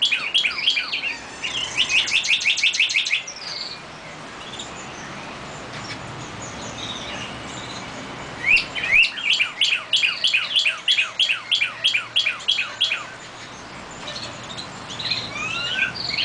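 A songbird singing: phrases of quick downward-sweeping chirps, several a second, with a fast trill about two seconds in. After a pause of about five seconds, another long run of chirps starts, and varied, rising notes follow near the end.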